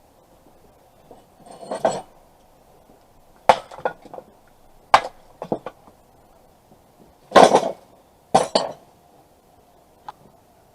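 Metal objects clanking and clinking as they are handled: a handful of irregular knocks and short clatters, the loudest a longer clatter about seven seconds in.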